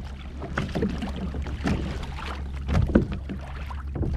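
Water lapping and sloshing against a fishing kayak's hull, with a few irregular light knocks, the loudest about three seconds in, over a steady low rumble.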